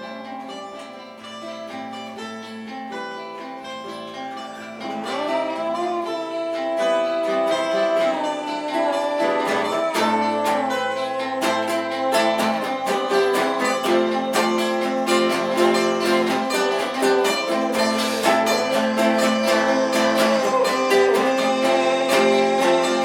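Instrumental band music led by guitars: plucked and strummed guitar, quiet at first, then fuller and louder from about five seconds in, with a lead line bending up and down in pitch.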